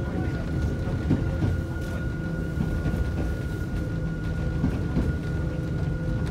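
Hakone Tozan Railway mountain train running, heard from inside the carriage: a steady low rumble with a faint, constant high whine over it.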